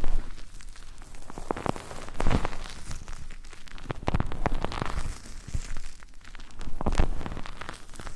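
Close-up rubbing and scratching directly on a microphone, as in ASMR ear rubbing: dense crackling and rustling that swells louder every couple of seconds.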